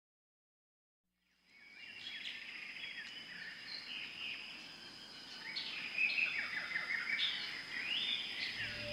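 Silence for about a second, then forest ambience fades in: many birds calling and chirping over a steady high whine. The birdsong grows louder and busier in the second half.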